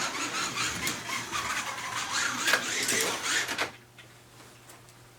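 Slot car running on a plastic track, its small electric motor whirring with rattling and rubbing from the tyres and guide. The noise cuts off suddenly about three and a half seconds in, leaving only a few faint ticks.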